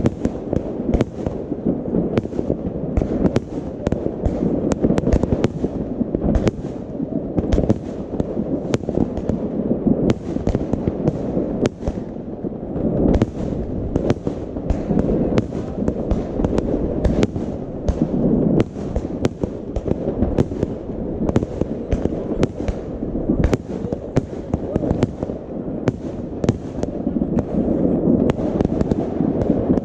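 Many fireworks going off at once: a continuous rolling rumble of overlapping explosions, with sharp bangs several times a second.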